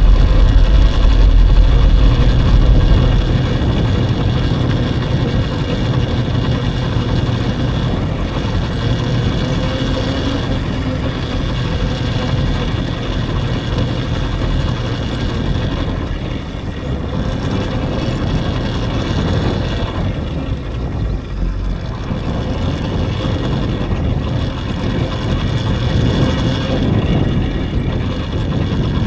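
Riding noise from an electric dirt bike: a steady rushing sound, heaviest in the first few seconds, with a faint motor whine that wavers up and down.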